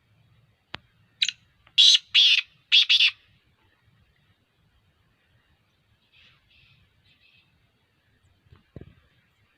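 Black francolin calling: a short note followed by three loud, harsh, rasping notes in quick succession, the phrase lasting about two seconds. Fainter, similar notes follow a few seconds later. A single sharp click comes just before the call and a low thump near the end.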